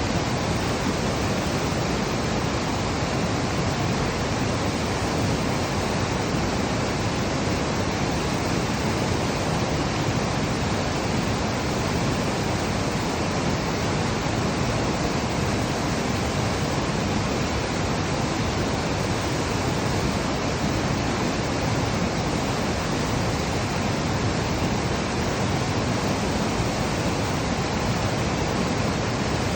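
A waterfall: falling water making a steady, unbroken rushing noise that does not change in level.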